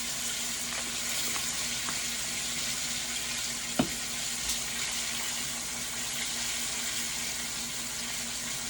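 Chicken wings frying in a pan of hot oil, a steady high sizzle, with one sharp click about four seconds in.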